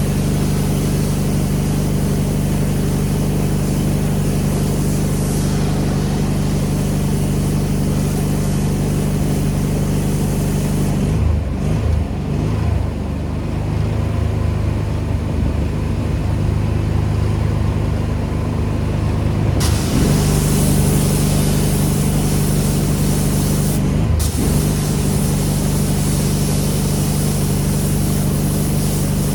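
Pressure washer engine running steadily under the hiss of the spray. About eleven seconds in, the spray stops and the engine note shifts. The hiss comes back suddenly a little before twenty seconds, with a short break near twenty-four.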